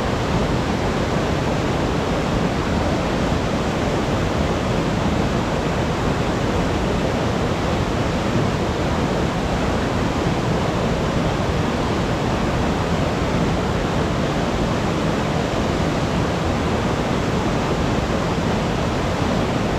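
Waterfall pouring steadily, a dense, even rush of water that holds at one level, with the stream running after a typhoon.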